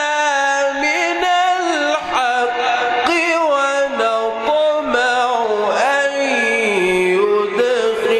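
Man reciting the Quran in a slow, melodic chant, holding long notes that bend up and down; the pitch drops lower about six seconds in.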